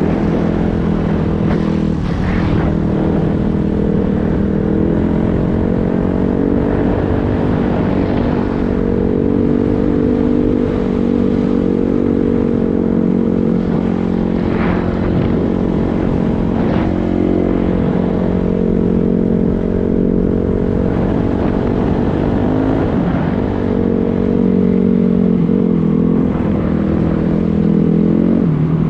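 Dirt bike engine running steadily while riding, its pitch holding mostly level, with a few dips and climbs as the throttle changes near the end.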